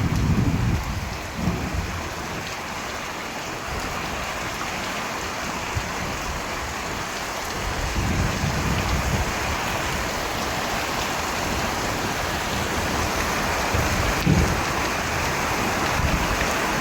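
Steady rain pouring, with low rolls of thunder rumbling near the start, midway, and once more near the end.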